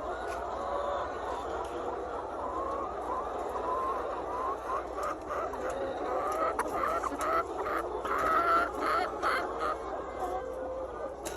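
A flock of chickens (pullets or laying hens) clucking and calling, many birds at once in a dense, overlapping chorus, growing busier and louder about halfway through, with a few sharp clicks.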